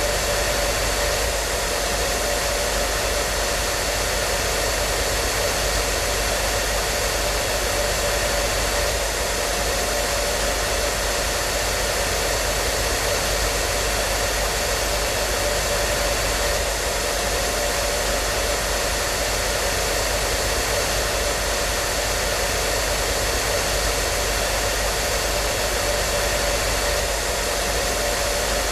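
Hair dryer running continuously: a steady, even rush of air with a constant motor hum, used as white noise.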